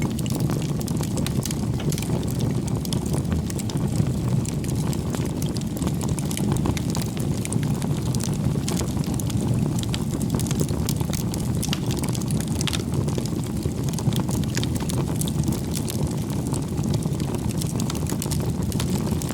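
Campfire of burning firewood: a steady low rumble of flames with frequent small crackles and pops from the wood throughout.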